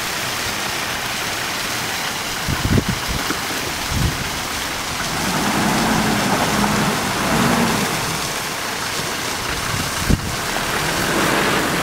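Vehicle on the move: steady road and tyre noise with a few short low thumps, and a faint engine note for a few seconds in the middle.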